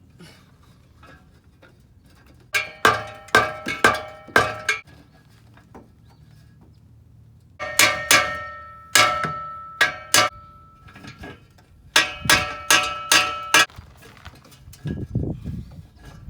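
Hammer blows on a steel exhaust pipe, clanging and ringing, in three runs of about five or six quick strikes each with pauses between, knocking at a stuck pipe joint to work it loose. A low dull rumble follows near the end.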